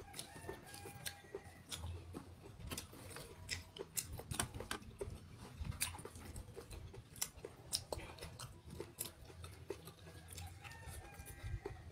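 A person chewing a mouthful of food, with many scattered short, sharp mouth clicks.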